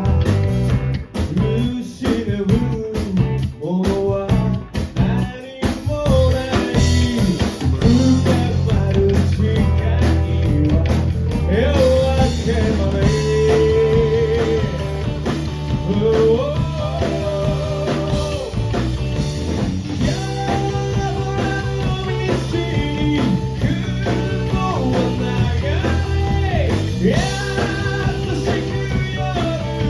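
Live rock band playing: electric guitar and bass under a singer's voice, with sharp drum hits in the first few seconds giving way to sustained chords.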